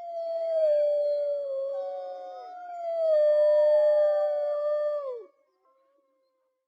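Canine howling: two long, drawn-out howls, each sliding slowly down in pitch, with other howling voices overlapping. It ends about five seconds in.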